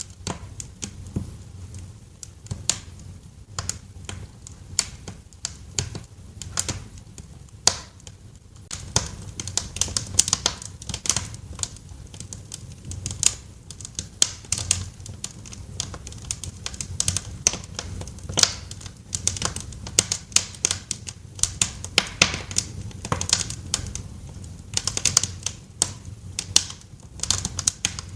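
Fire crackling in a fireplace: irregular sharp pops and snaps, coming in denser clusters at times, over a steady low rumble.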